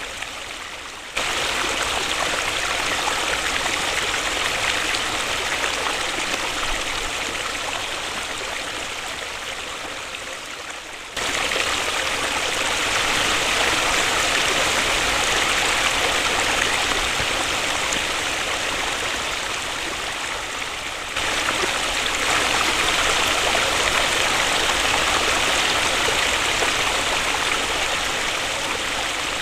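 Waterfall: a steady rush of falling water. It jumps abruptly louder about every ten seconds and then slowly fades, as if edited from repeated short takes.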